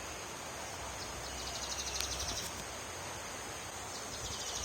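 Steady rush of a waterfall under a constant high insect drone, with two spells of rapid, pulsed high trilling.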